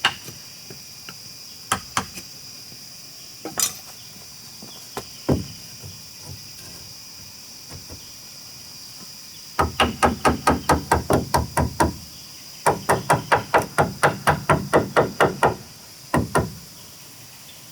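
Hammer blows on wood: a few scattered single knocks, then two quick runs of rapid strikes, about seven a second, with a short pause between them.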